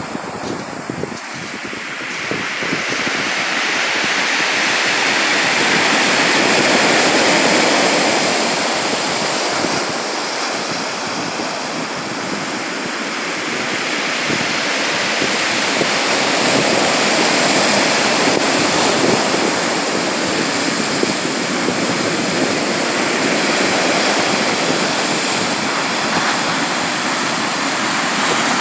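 Sea waves breaking and washing ashore, a continuous surf that swells and eases in slow surges, with some wind on the microphone.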